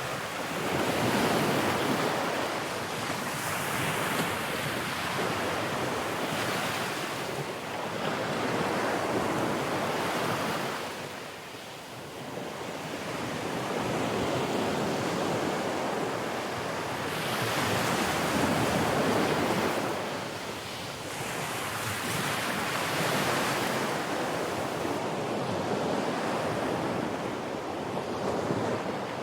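Sea waves breaking and washing on a shore, swelling and receding every few seconds, with wind buffeting the microphone.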